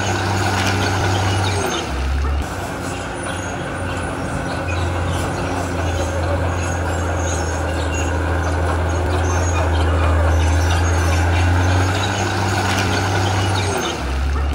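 Heavy diesel earthmoving machinery running under load: a steady, loud low engine drone with a rough rattle over it, the pitch dropping briefly about two seconds in and again near the end.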